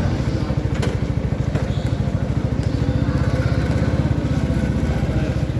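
CFMoto 300SR's single-cylinder engine running steadily with the motorcycle under way, its firing pulses coming fast and even.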